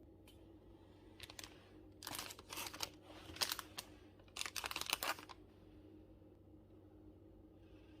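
Packaging material being handled: crinkling and rustling in four short bursts over a few seconds, with a steady faint hum underneath.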